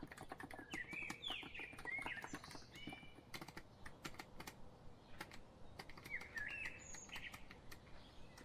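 Typing on a COX Empress Living Coral Edition electro-capacitive (non-contact) keyboard: a steady run of key clicks. Birdsong chirps over it in two bursts, one in the first few seconds and another about six seconds in.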